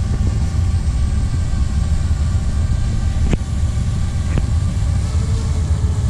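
Freight cars of a manifest train rolling past, a steady low rumble of wheels on rail, with two sharp clicks a little past the middle.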